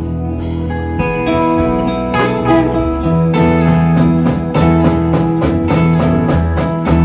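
Live rock band playing an instrumental passage of a slow blues-tinged song: sustained guitar lines over bass, with a steady drum beat.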